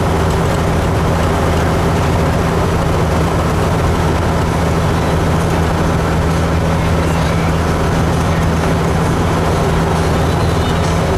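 Kenworth truck's diesel engine running, a steady low drone with road noise, heard from inside the cab.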